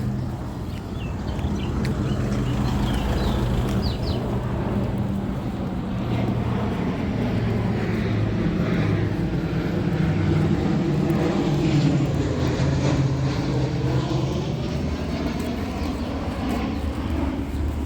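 Aircraft engines passing low overhead, a steady drone with a sweeping, phasing tone that peaks about twelve seconds in.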